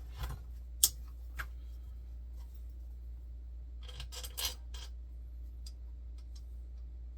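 Handling of printer parts and screws during assembly: a sharp click about a second in, a lighter knock, then a short cluster of clicks and rustling around four seconds in, over a steady low hum.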